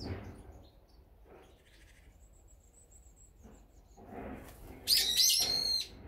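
Small wild birds calling: faint scattered chirps and a thin high whistle, then about five seconds in a burst of loud, ringing calls in quick succession lasting about a second.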